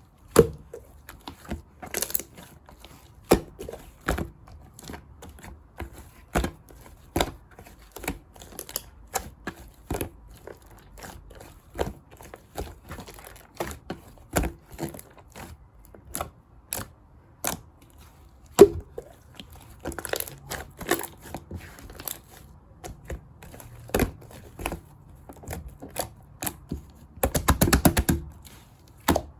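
Hands squeezing and poking clear slime mixed with shaving foam, making irregular sticky clicks and pops, with a dense run of crackling near the end.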